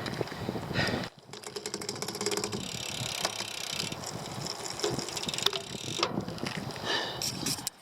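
Riding noise from a bicycle on a road: wind rushing on the microphone and tyre noise, broken by scattered clicks. About a second in there is a brief drop, followed by a quick, even run of ticks lasting a second or two.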